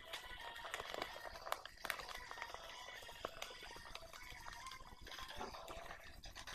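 Sheet of paper being handled and folded, with faint rustling and small crackles and clicks as it is creased.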